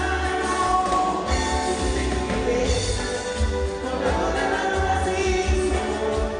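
Live band music with sung vocals over a steady pulsing bass beat.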